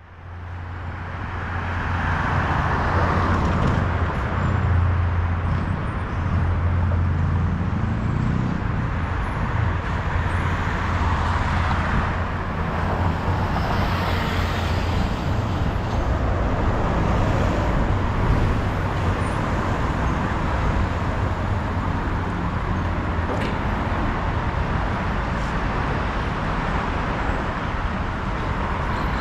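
Steady road traffic, a continuous low rumble and hiss of passing cars, fading in over the first couple of seconds.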